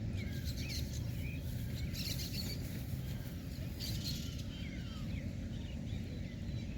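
Birds chirping with many short calls over a steady low rumble.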